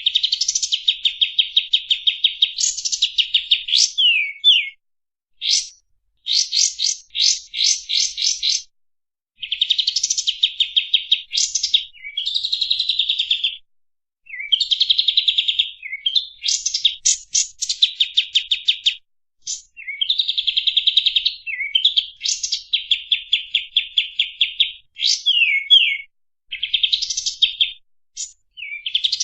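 Kapas tembak bulbul singing in fast, tightly packed trills of rapid repeated notes, in phrases of a second or two with short pauses between.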